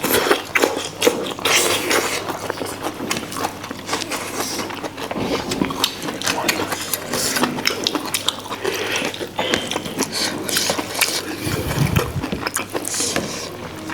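Close-up mukbang eating sounds: chewing fatty fish and rice, a steady run of wet clicks, smacks and crackles.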